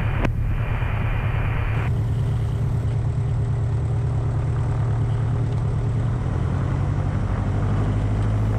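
Cessna 177RG Cardinal's four-cylinder Lycoming engine and propeller running steadily, a constant low drone.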